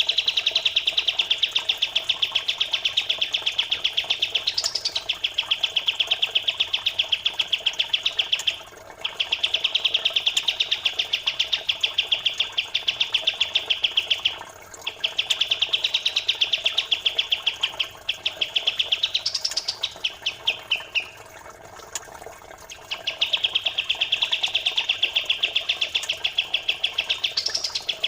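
Songbird song in long runs of very fast, tightly packed chattering notes, broken by short pauses, with a quick rising note now and then. A faint steady trickle of running water lies underneath.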